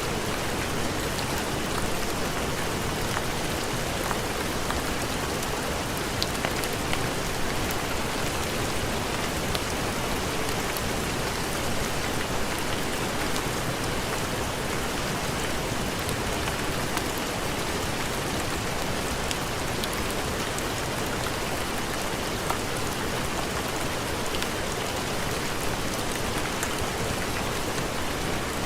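Heavy rain falling in a steady, even hiss, with scattered faint ticks of individual drops.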